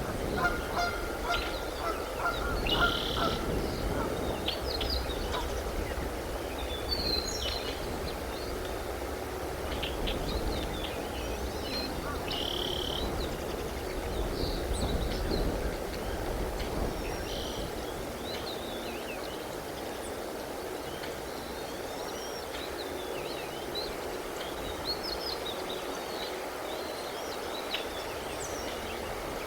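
Bald eagles calling at the nest: short, high-pitched chirps and squeals scattered through, over a steady low background noise.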